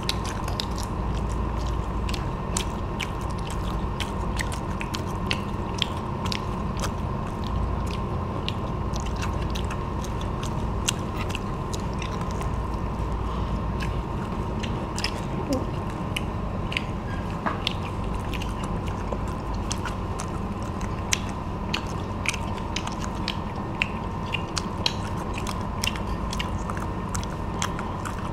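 Crunching and chewing of crispy batter-fried shrimp, many sharp irregular crunches over a steady low hum.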